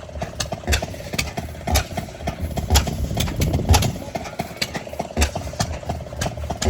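Antique stationary gas engines running, with a heavy, low exhaust thump about once a second among sharper pops from other engines.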